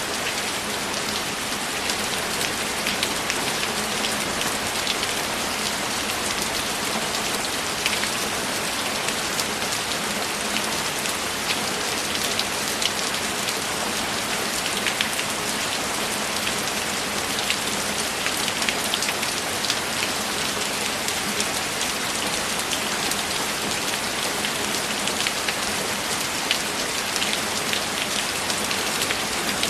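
Heavy rain falling steadily: a dense, even hiss with many sharp single drops ticking through it.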